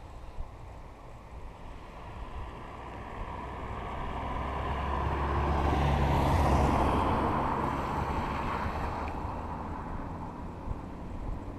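A motor vehicle drives past, its engine hum and road noise swelling over several seconds, loudest about six seconds in, then fading away.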